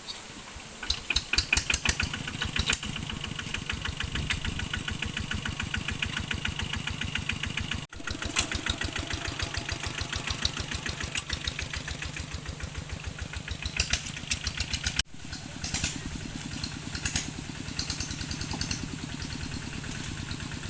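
A small vehicle engine running steadily with a fast, even chugging. The sound cuts out abruptly for an instant twice, about 8 and 15 seconds in.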